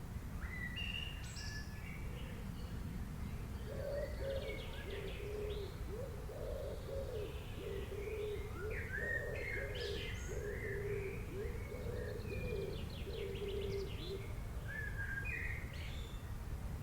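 Several wild birds chirping and trilling in short high phrases, with a lower call repeated over and over from about four seconds in until near the end. A steady low rumble runs underneath.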